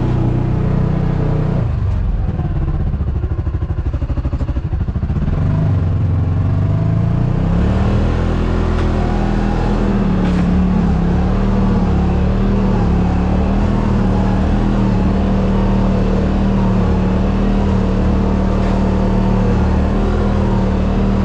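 Side-by-side UTV engine running under changing throttle: it drops back with a pulsing sound from about two to six seconds in, then builds up again and holds a steady drone.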